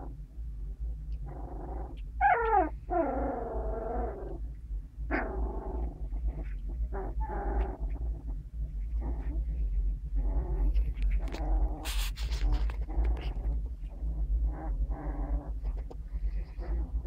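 Puppies whining and squealing over and over in short pitched cries that bend up and down, over a steady low hum.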